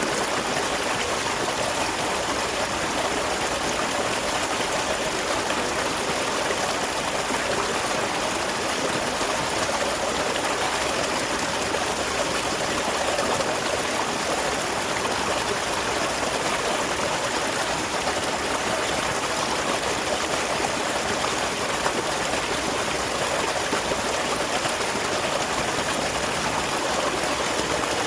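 Small waterfall running steadily, water splashing and trickling without a break.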